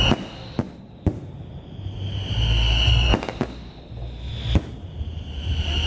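Aerial fireworks display: about six sharp bangs of bursting shells over a low rumble. Long high whistles build up and end in a burst, one in the middle and another near the end.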